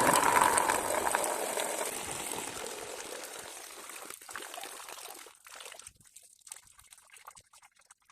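Old coolant, mostly water, pouring out of the open cooling-system drain of a Mercedes C180 W203's M111 engine. The stream is strongest at first and weakens over about five seconds to a thin trickle and scattered drips as the system empties.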